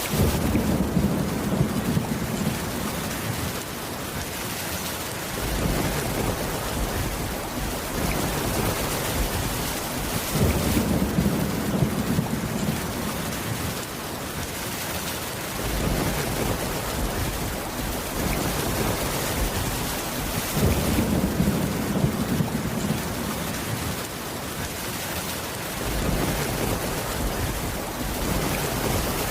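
Steady rain with low rumbles of thunder rolling in about every five seconds, six times in all.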